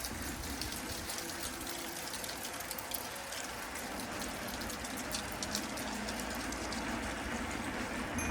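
Steady noise of a bicycle ride, tyres on the road and wind on the microphone, with many small high ticks and rattles scattered through it.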